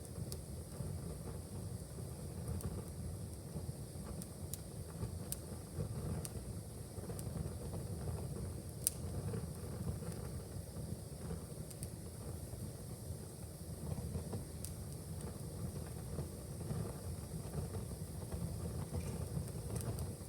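Wood fire crackling in a fireplace: scattered sharp pops and snaps over a low, steady rumble, with one louder pop about nine seconds in.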